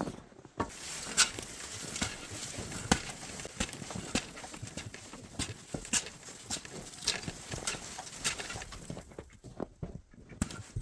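Irregular sharp knocks and crunches of ice and packed snow being struck and broken loose, several a second at times.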